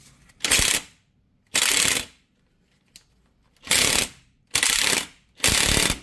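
Impact wrench hammering in five short bursts of about half a second each, driving the screw of a bearing press to force the universal joint cups out of the axle yoke.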